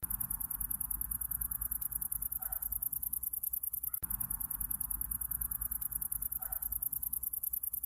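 Summer-night insect chorus: crickets chirping in a fast, even, high-pitched pulse, over a soft hiss and low rumble. The pattern repeats about every four seconds.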